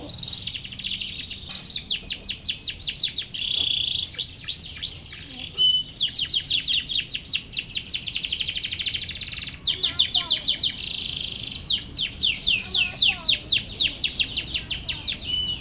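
Canary singing a long, continuous song of fast repeated trills and sweeping notes strung together in phrases, with one short break a little past halfway.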